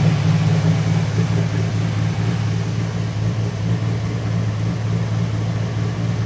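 1989 Jeep Wrangler's carbureted engine idling steadily on choke at about 1100 rpm just after a cold start, running rich with the choke plate closed.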